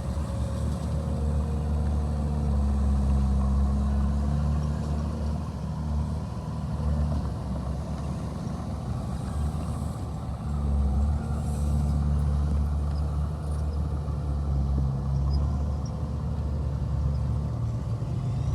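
Diesel engine of heavy earthmoving machinery running steadily, a deep continuous drone that swells and eases slightly under load.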